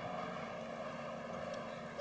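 Steady engine drone, an even hum with no change in pitch.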